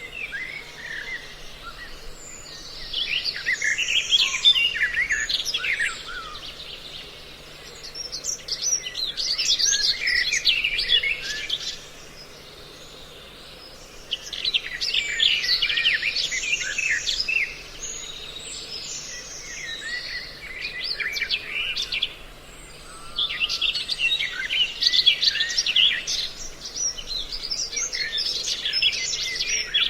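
Mixed recording of several small songbirds twittering in rapid, high chirping phrases a few seconds long with short pauses between, a lure call track meant to draw birds in for trapping.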